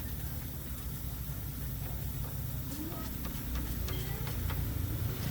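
Steady low rumble of a running engine, with a few light clicks.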